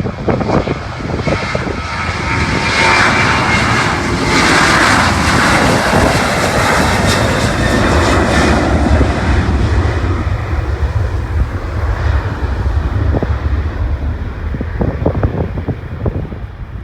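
Jet airliner at takeoff power passing by, its engine noise swelling to a loud hiss about three to eight seconds in and then fading away. Wind rumbles on the microphone throughout.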